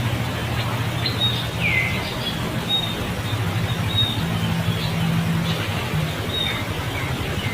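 Birds chirping: short high chirps repeat every half second to a second, and one call about two seconds in slides down in pitch. A steady low hum runs underneath.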